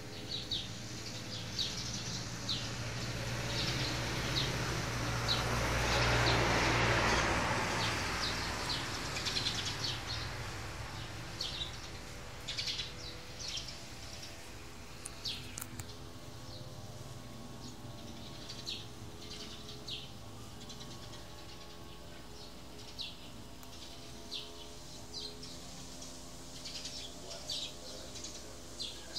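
Small birds chirping in the background: many short, high chirps repeating throughout. About three seconds in, a rush of noise with a low rumble swells up, peaks around seven seconds, and fades out by about ten seconds.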